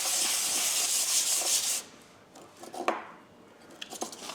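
Steel hand-plane blade rubbed across 320-grit sandpaper to flatten it: one long scratchy stroke lasting about two seconds, then a single light knock about a second later.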